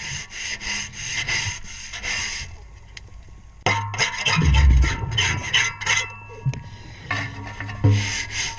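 Underwater, a diver's hand tool scrapes a boat propeller in quick rubbing strokes, about three to four a second. The strokes stop for about a second midway, then start again, with low rumbling bursts among them.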